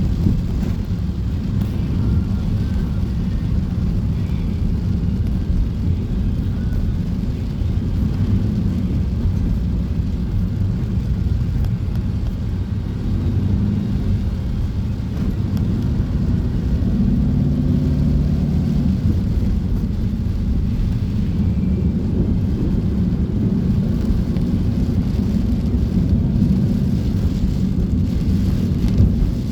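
Heavy downpour on a street: a steady, loud low roar of rain, with a vehicle engine humming through it for a few seconds around the middle.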